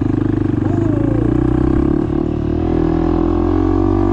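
Honda Monkey's single-cylinder four-stroke engine running steadily as the motorcycle rides along.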